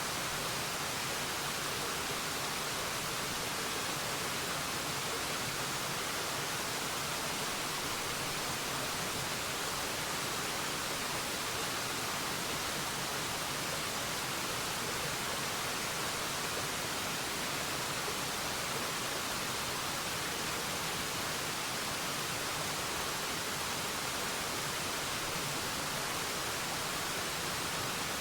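Waterfall rushing steadily: an even, hissing wash of falling water, weighted toward the high end, with no single splashes or changes standing out.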